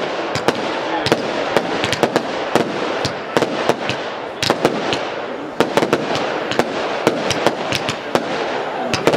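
Professional aerial fireworks display: a rapid run of sharp bangs from shells launching and bursting, several a second, over a continuous hiss.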